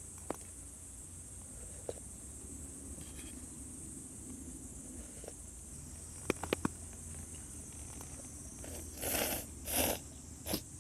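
Steady high-pitched insect chorus, with a few sharp clicks a little past the middle and two short rustling bursts near the end.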